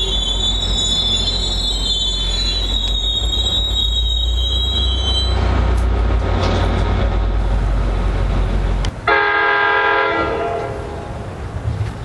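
NJ Transit commuter train rolling past with a heavy rumble and high-pitched wheel squeal that fades out about five seconds in. About nine seconds in, a locomotive horn sounds one chord-like blast for about a second and a half.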